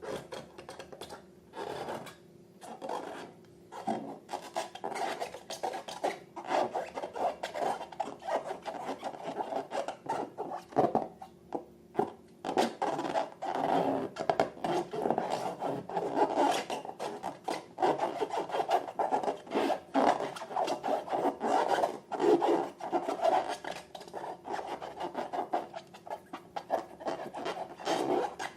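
Slime being mixed and worked, a dense irregular crackle of small sticky clicks and squelches.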